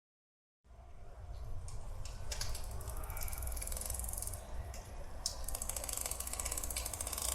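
Underwater coral-reef soundscape: a dense crackle of many small clicks over a low rumble, starting after a moment of silence.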